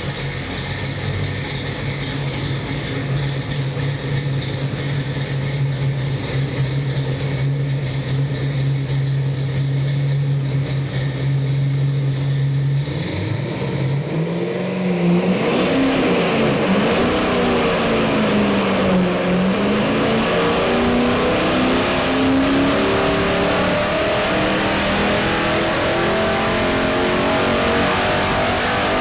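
Chevy 383 stroker small-block V8 running on a test stand: a steady fast idle for about the first thirteen seconds, then revved up and down repeatedly, its pitch rising and falling and the sound getting louder.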